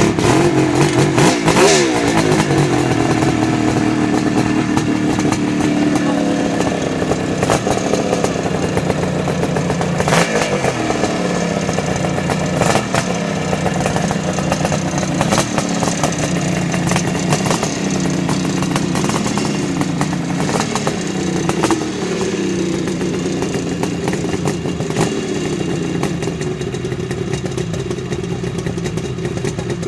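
Kawasaki 750 motorcycle engine catching on a kick-start and running, revved up and back down every few seconds.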